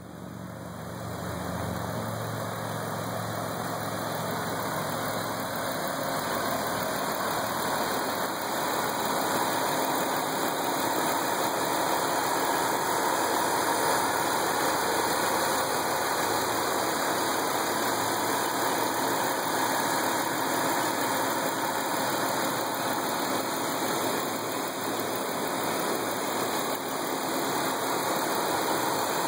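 A 2005 Dodge Caravan's 3.8-litre V6 idling steadily, heard close up with the hood open. It gets louder over the first couple of seconds, then holds even.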